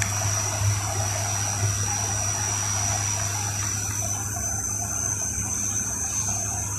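Airliner cabin noise in flight: a steady rush of air and engine sound with a low hum underneath.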